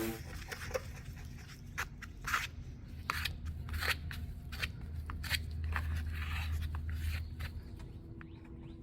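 Irregular clicks, taps and short scrapes of hand tools working on a car body panel during dent repair.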